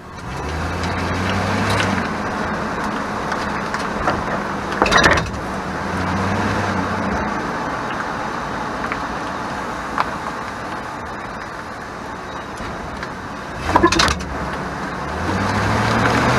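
2001 Chevrolet Silverado 1500 pickup driving, with engine and road noise and the engine note rising as it pulls away. Twice, about 5 and 14 seconds in, there is a short rattling clatter from the rear, the over-bumps rattle that the owner traced to the parking brake.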